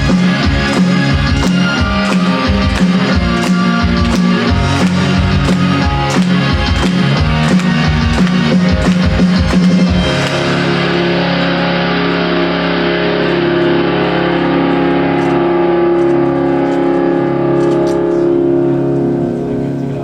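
Rock music with distorted electric guitar and drums and no vocals. The drumbeat stops about halfway and the last chords ring out, the close of a song.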